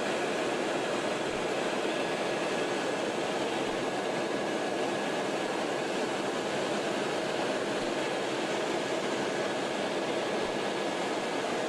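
Helicopter in flight heard from inside the cabin: a steady rotor and engine noise with no change in level.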